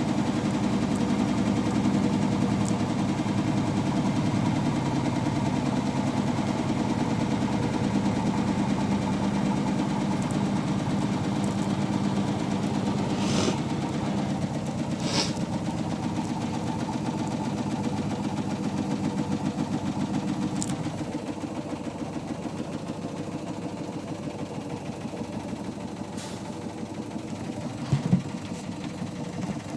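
Hotpoint washing machine spinning on its final spin: a steady motor and drum hum with a fast even pulse. The hum eases off a little about two-thirds of the way through. A few light clicks and one sharper knock come near the end.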